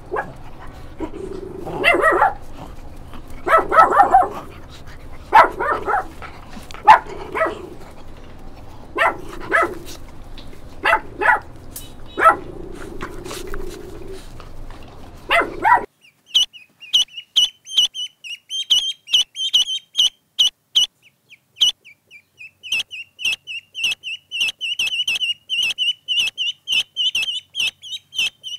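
A dog barking and yelping at irregular intervals over a low hum, then, after an abrupt cut about halfway through, the rapid, high-pitched peeping of young poultry, several peeps a second.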